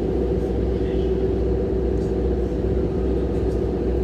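Steady engine drone: a constant low rumble with a steady hum above it, as from a vehicle running at an even speed.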